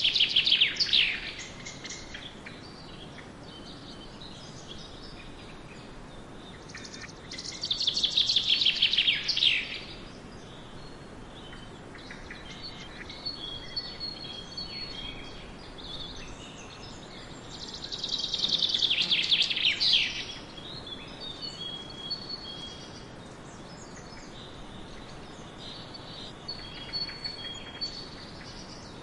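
A bird singing. It repeats a loud phrase of rapid high notes about two seconds long that ends in a falling sweep, at the start, about eight seconds in and about nineteen seconds in, with faint short chirps between over steady outdoor background noise.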